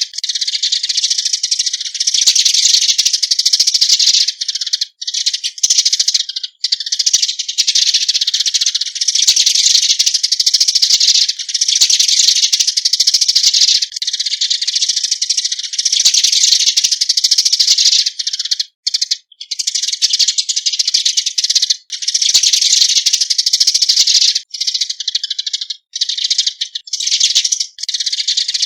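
Eurasian tree sparrows' flock-gathering call: a rapid, nearly unbroken stream of high-pitched chirping and chattering, with a few brief pauses.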